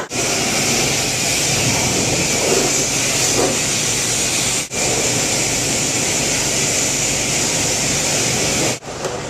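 High-pressure spray wand at a self-serve car wash, blasting water onto a car in a loud, steady hiss. It breaks off abruptly for a moment about halfway through and again near the end.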